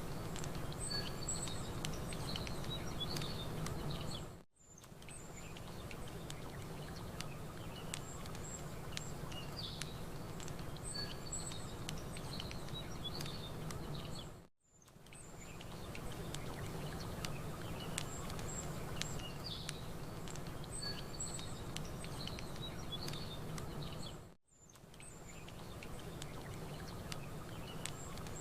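Campfire crackling with small songbirds chirping over a low steady wash. The whole sound briefly fades out and back in about every ten seconds, a short recording looping.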